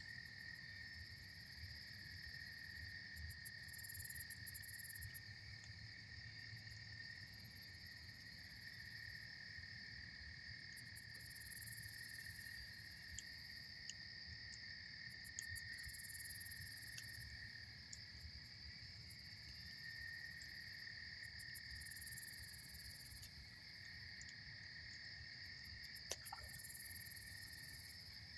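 A campfire crackling faintly, with a few sharp pops, the clearest about 26 seconds in, under a steady, high-pitched night chorus of calling insects. A low rush of river water runs underneath.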